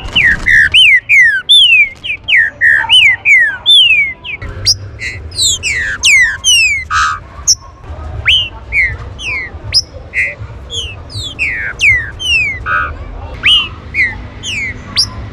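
Green-winged saltator (trinca-ferro) calling: a fast, busy run of short falling whistles, two or three a second, some overlapping one another.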